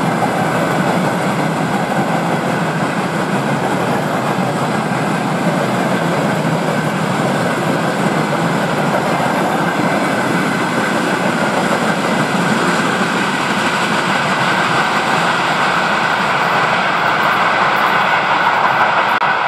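Freight wagons, covered hopper cars and then tank cars, rolling past at speed: a steady noise of wheels on rails with the rattle of the wagons.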